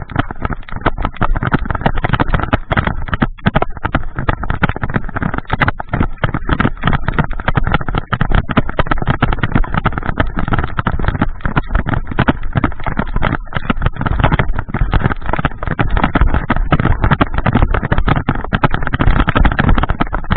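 Heavy rain and rough movement noise battering the microphone as someone hurries on foot through a downpour: a loud, dense rumble broken by constant rapid knocks.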